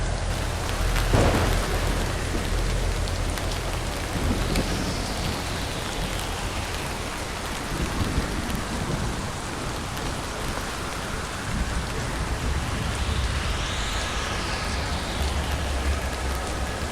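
Steady heavy rain with rolling thunder: a sharp crack about a second in, then the low rumble builds again near the end.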